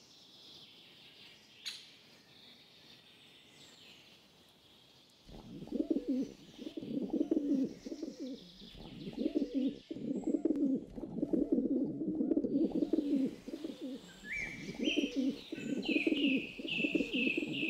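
Pigeon cooing in repeated low, throaty phrases, starting about five seconds in, over faint chirping of small birds. Near the end, higher chirps step upward alongside the cooing.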